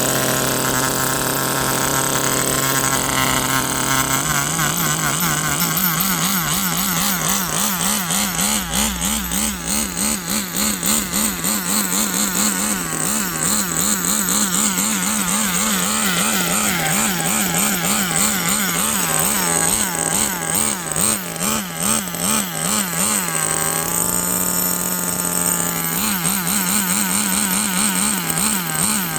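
Small nitro glow engine of a Kyosho FW06 1/10 touring RC car running during its break-in after assembly. It runs steadily at first, picks up pitch a few seconds in, then wavers regularly up and down in pitch, with one short steady stretch near the end.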